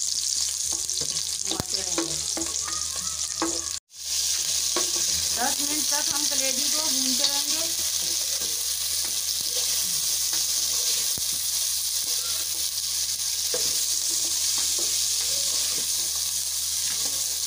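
Sliced onion, and then pieces of mutton liver, sizzling in hot oil in a pot while a wooden spoon stirs and scrapes them. The sound drops out for a moment about four seconds in.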